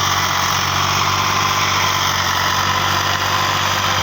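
Tractor diesel engine running steadily at an even speed, a constant low drone with no change in pace.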